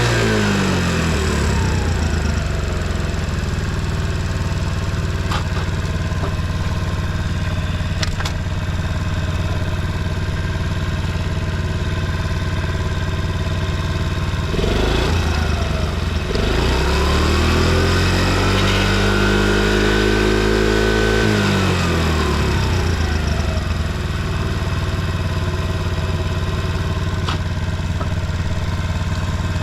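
Honda Motra AD05's small four-stroke single-cylinder engine idling, settling from higher revs in the first couple of seconds, then revved up about halfway, held for several seconds and let fall back to idle. It runs evenly with no abnormal noise, as the seller describes it.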